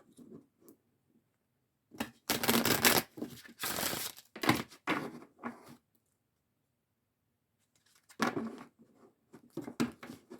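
A deck of oracle cards shuffled by hand: two dense rustling bursts about two and four seconds in, a few shorter ones after, then light scattered clicks and slides of the cards near the end.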